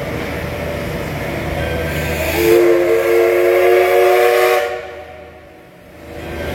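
Commuter train sounding its horn in one long blast of about two seconds over the low rumble of a train.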